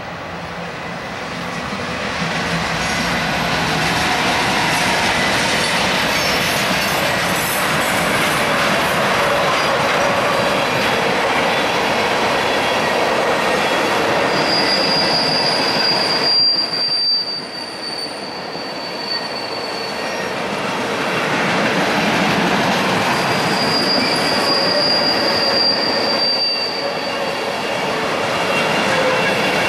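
Freight train of tank cars rolling past, just behind its diesel locomotives (an NS C44-9W and two Union Pacific SD70Ms): a steady rumble of wheels on rail with clacking that builds over the first few seconds. A high wheel squeal rises over it twice in the second half, each for a few seconds.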